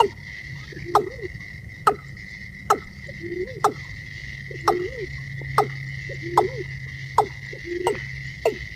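Watercock (cúm núm) calling: a sharp note that falls steeply in pitch, repeated about once a second, several of them followed by a short hooked lower note. A steady high whine runs underneath.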